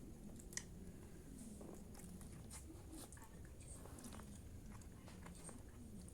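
Faint chewing and eating of fried rice and fried noodles, with scattered short clicks and one sharper click about half a second in.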